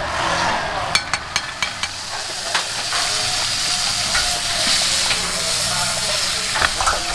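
Food frying and sizzling in a hot pan, with a metal utensil clinking against the pan several times about a second in and a few times more later on.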